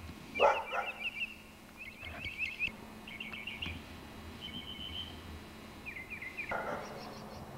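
A songbird singing a string of varied phrases, each a quick run of the same note repeated several times. A dog barks about half a second in.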